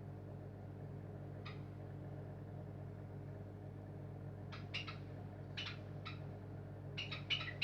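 Bosch Maxx 5 washing machine running with a steady low hum. Short, high squeaks come a few times, several together near the end.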